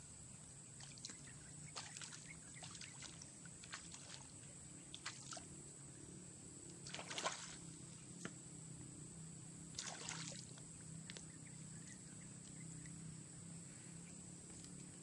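Faint water sounds: several short splashes and sloshes, the loudest about seven seconds in and another about ten seconds in, over a steady high-pitched hiss.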